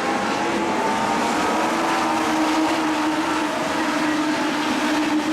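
Legends race cars' engines running hard under racing, a steady engine note whose pitch drifts slowly up and down.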